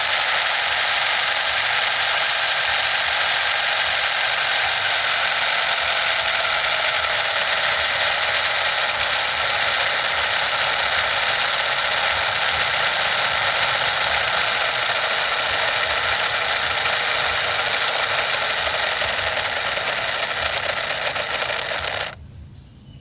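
Small motor of a miniature DIY model engine and water pump running with a steady high whir and rattle, cutting off suddenly near the end.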